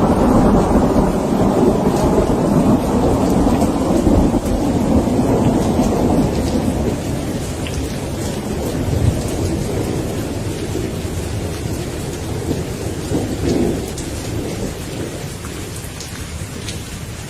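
Rolling thunder rumbling over steady rain, loudest at the start and slowly dying away, with raindrops pattering throughout.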